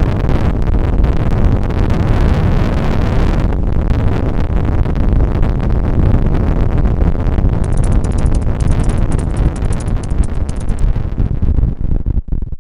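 Strong wind buffeting the microphone, a loud, steady low rumble with no spoken words over it.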